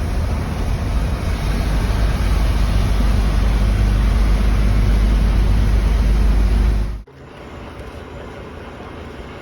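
Steady low rumble and hiss of a moving bus on the road. About seven seconds in it cuts off abruptly to a much quieter, steady hum.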